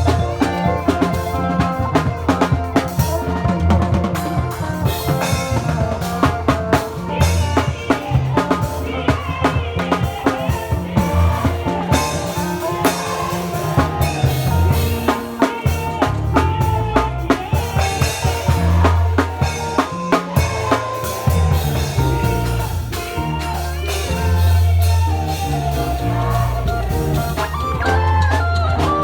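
Lively praise music carried by a drum kit, with rapid snare and rimshot strokes over a heavy, steady bass line.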